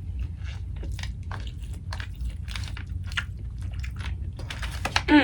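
Close-miked chewing and biting of food, with irregular wet clicks and crunches. Near the end a loud, short vocal sound glides down in pitch.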